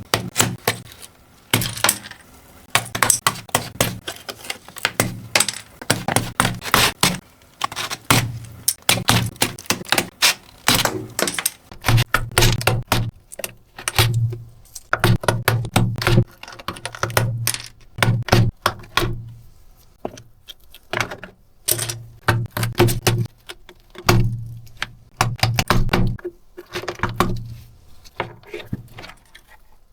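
Hard plastic keyboard keycaps and parts clicking and clacking as they are handled, in quick irregular clusters of sharp clicks, many with a dull knock underneath.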